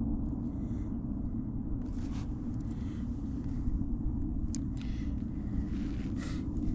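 A steady low rumble throughout, with a few faint brief scratches on top.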